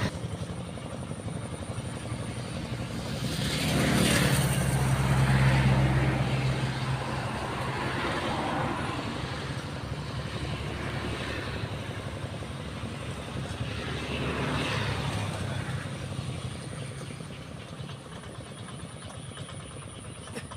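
Tractor engine running as it plows a rice paddy, growing louder twice as it comes close, once about four to six seconds in and again around fourteen to fifteen seconds.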